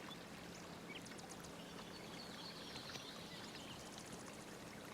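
Recorded nature sounds playing in the background: the steady, faint rush of flowing water, with a few faint high chirps over it.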